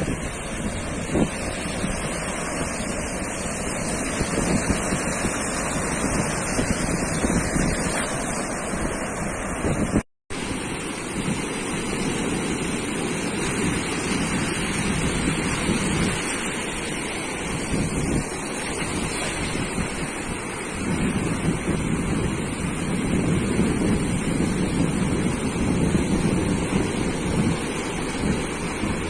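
Ocean surf breaking and washing onto a sandy beach in a continuous, swelling wash, with wind rumbling on the microphone. The sound cuts out completely for a split second about ten seconds in.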